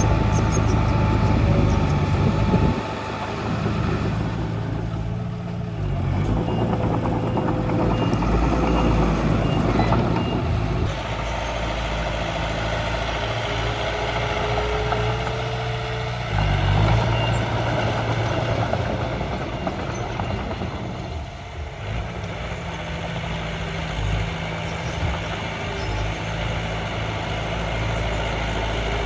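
Engines of a miniature dump truck and bulldozer running steadily, shifting in pitch now and then as they work. A short run of high reversing-style beeps sounds about six seconds in.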